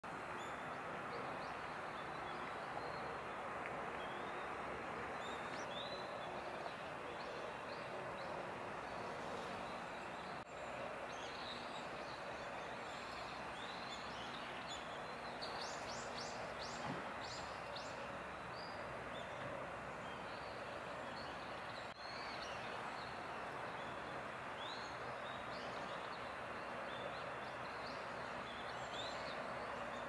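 Short, high bird chirps, scattered and with a quick run of them midway, over a steady background hiss.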